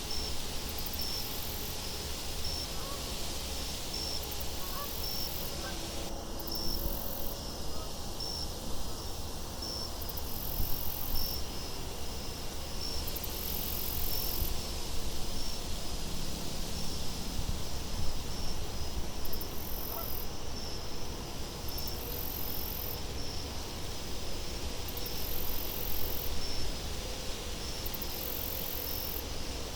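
Steady wind ambience with a low rumble, and crickets chirping at a regular pace throughout.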